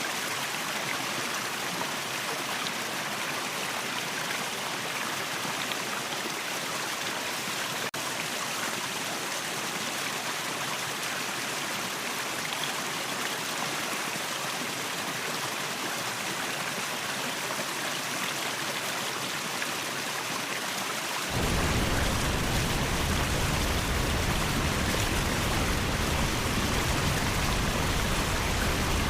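Waterfall water rushing steadily. About 21 seconds in it abruptly turns louder and deeper.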